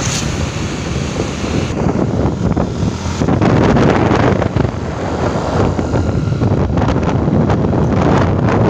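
Wind buffeting the microphone of a moving vehicle, a loud, uneven rumble with road and engine noise underneath.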